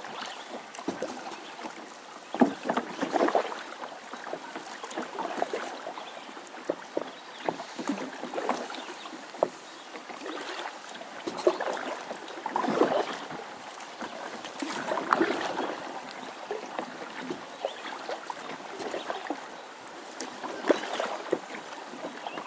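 Kayak being paddled: irregular splashes of the paddle blades dipping into the water, with occasional sharp knocks.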